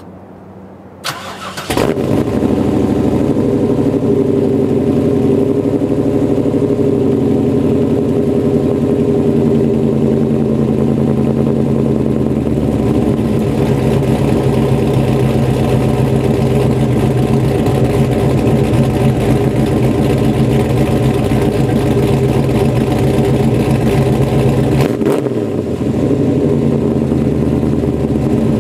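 1995 Pontiac Trans Am's LT1 V8, breathing through long-tube headers and a Magnaflow dual-muffler exhaust, cranks briefly and fires about a second in, then idles steadily, the idle settling a little lower partway through.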